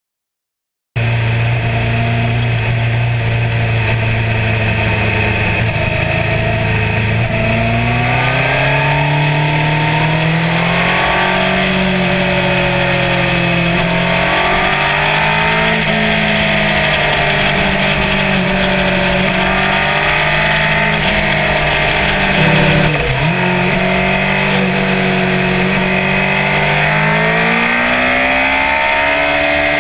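Sportbike engine running at highway speed over heavy wind rush, its pitch rising and falling as the throttle opens and closes, with a brief sharp drop in revs partway through and a long rise under acceleration near the end. It cuts in about a second in.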